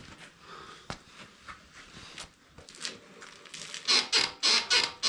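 Rear suspension of a Royal Enfield Himalayan squeaking as it is worked up and down, with faint creaks and clicks first, then about five loud squeaks in quick succession in the last second and a half. The dogbone links are freshly greased, and the owner traced the squeak to the swing arm shaft.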